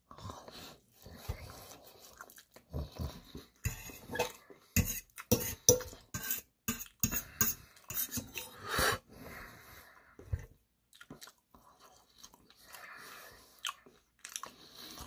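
A person chewing food, a run of irregular short clicks from the mouth, busiest a few seconds in and thinning out toward the end.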